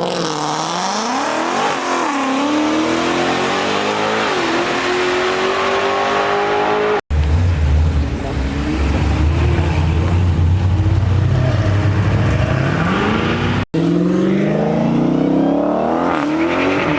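Car engines revving hard and accelerating past, their pitch climbing and then dropping again as they rev and shift; the middle stretch holds a deep exhaust rumble. The sound breaks off abruptly twice, about seven and fourteen seconds in.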